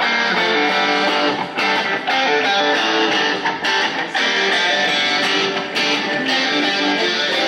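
Indie rock band playing live, an instrumental passage led by strummed electric guitars, loud and dense throughout.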